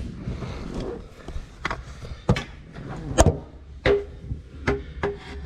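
Hand work on a boat's battery wiring: a series of sharp knocks and clunks of tools and parts, the loudest about three seconds in. Short squeaks come near the end.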